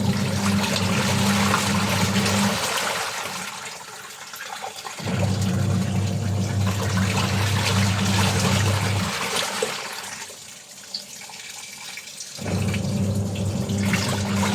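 Washing machine washing: its motor hums in runs of about four seconds, stopping about two and a half seconds in and again near nine seconds and starting again after each pause, while water sloshes throughout.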